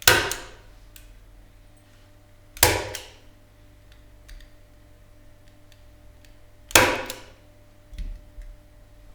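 Three sharp knocks from workshop tool work, like hammer or tool strikes, each with a short ring after it, a few seconds apart, then a softer knock near the end.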